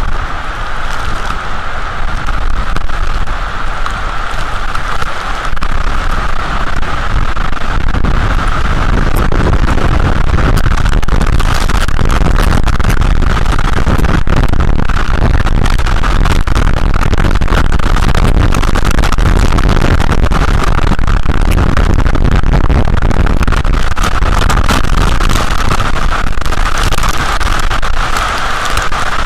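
Storm noise: strong wind rumbling on the microphone together with heavy rain, the steady rush peppered with sharp ticks of drops striking.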